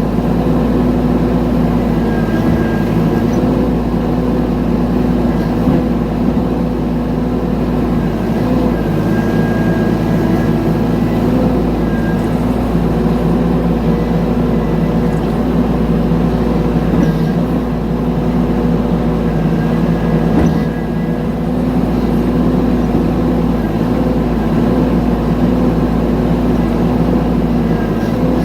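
Mini excavator engine running steadily at a constant pitch.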